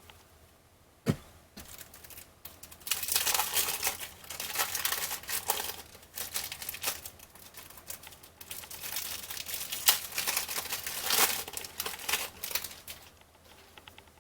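Cellophane wrapper of a 1989 Fleer baseball cello pack being torn open and crinkled. A single sharp click comes about a second in, then crinkling and tearing run for about ten seconds.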